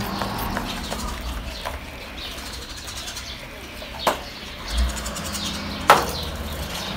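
Birds chirping, with two sharp knocks about four and six seconds in.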